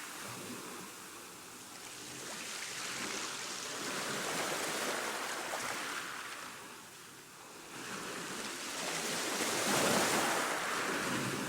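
Ocean surf: waves washing in as a steady hiss that swells and fades, building twice, with a lull between the two swells.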